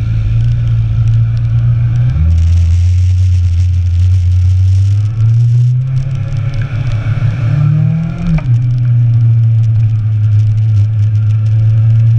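Motorcycle engine heard from on board while riding. Its pitch drops about two seconds in, climbs steadily as the bike pulls, then drops sharply about eight seconds in, like a gear change, and holds steady.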